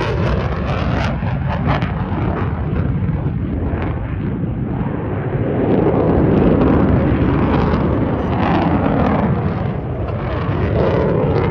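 Loud jet engine noise from a military jet in flight, a continuous heavy rumble that swells to its loudest about six seconds in.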